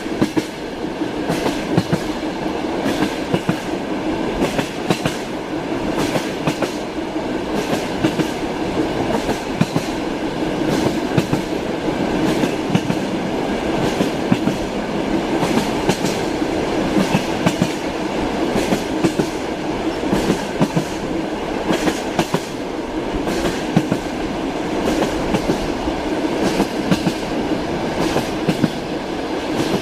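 Train wheels clacking over rail joints, frequent sharp clicks at uneven spacing over a steady rolling rumble of a moving railway car.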